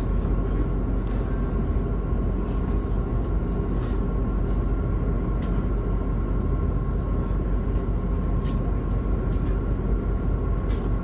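Cabin noise of a MAZ-216 articulated bus on the move: a steady low engine and road rumble with a faint steady whine, and a few light clicks or rattles.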